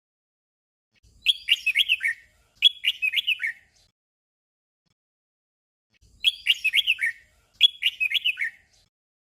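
Red-whiskered bulbul song: a short warbled phrase given twice in quick succession, and the same doubled phrase comes again after a gap of about three seconds.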